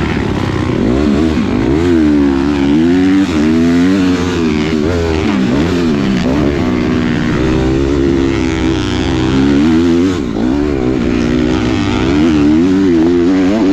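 Motocross dirt bike engine being ridden hard, revving up and dropping back over and over, its pitch rising and falling every second or two.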